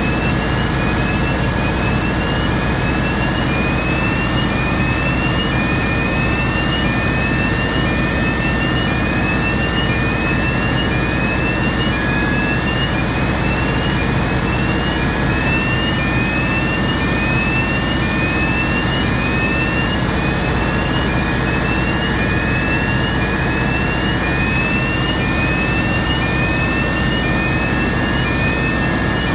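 Cummins QST30-G5 V12 diesel engine of a 1000 kW generator set running steadily, a dense low rumble with steady high whine tones over it. A short rising chirp repeats about once a second throughout.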